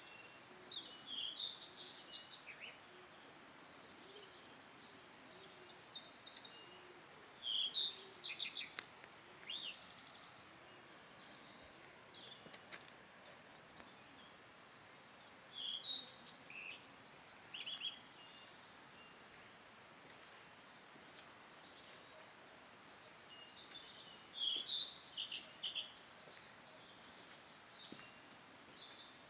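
Songbirds singing high, quick chirping phrases in about five bursts a few seconds apart, over a steady faint background hiss.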